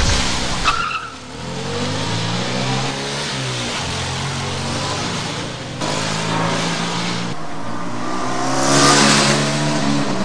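1986 Ford Fiesta's engine revving as the car accelerates away, its pitch rising and falling through the revs, with a louder rush of engine and tyre noise about nine seconds in.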